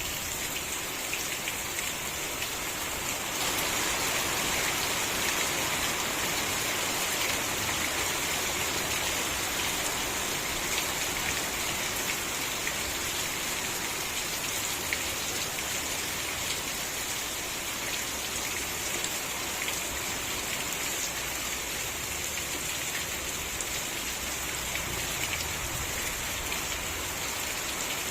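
Steady rain falling, many individual drops pattering on surfaces over a continuous hiss, a little heavier from about three seconds in.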